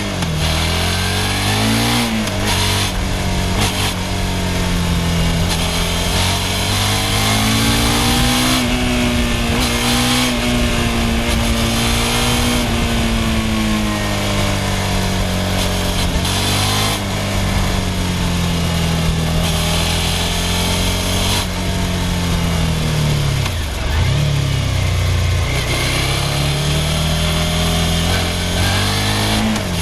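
Suzuki SV650's V-twin engine running under way, its note rising and falling with throttle and gear changes, with a sudden drop and pickup about two-thirds of the way through. Wind rush is heard over the engine.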